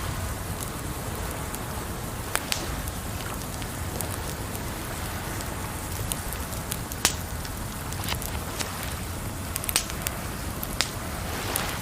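Wood fire crackling, with a few sharp pops scattered through, over a steady wash of water noise.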